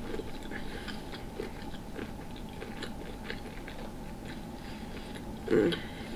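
Close-up chewing and biting of a sauce-drenched potato topped with king crab and shrimp, with many small mouth clicks and one brief louder mouth sound about five and a half seconds in.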